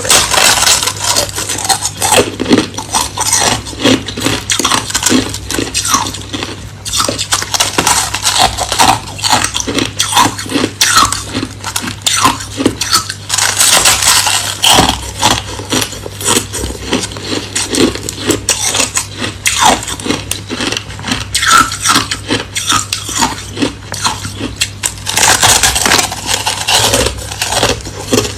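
Hard crushed ice being bitten and chewed in quick, dense crunches, with clinking of ice pieces in between.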